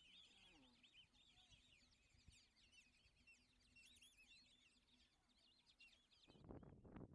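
Flock of white-faced whistling ducks calling: many faint, high whistles overlapping in quick succession. About six seconds in, a louder low rumble of wind on the microphone covers them.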